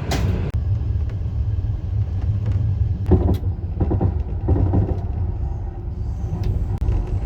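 Passenger train running along the track: a steady low rumble of the wheels on the rails, with a few sharp knocks about three to five seconds in.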